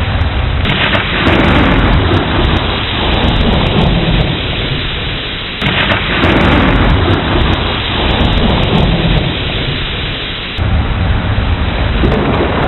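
Thunderstorm with heavy rain falling steadily and thunder rolling through it. Twice, less than a second in and again about halfway, a peal breaks in suddenly and rumbles away over several seconds, and a third begins near the end.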